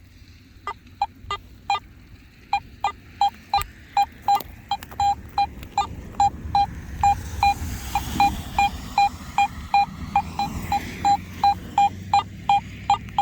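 Metal detector beeping in a steady run of short, same-pitch electronic beeps, about three a second, starting about a second in: the rain-soaked equipment going haywire and sounding sick.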